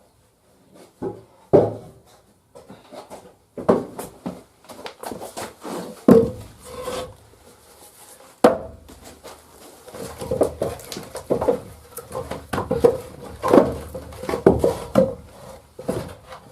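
Firewood logs knocking and scraping against one another as they are handled, in irregular thumps, over a faint steady hum.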